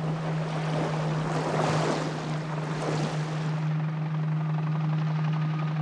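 Helicopter in flight: a steady low engine and rotor drone, with a swell of rushing noise about two seconds in.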